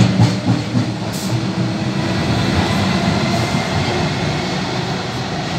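Metro suburban electric train running out of an underground platform, a steady low rumble of wheels and running gear that eases as its last car passes and heads into the tunnel.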